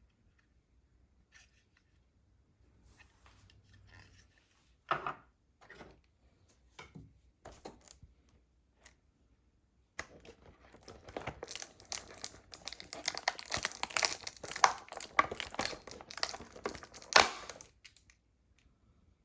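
Toy packaging being handled and torn open: scattered small clicks and rustles, then from about ten seconds in a long stretch of crinkling and tearing that stops near the end.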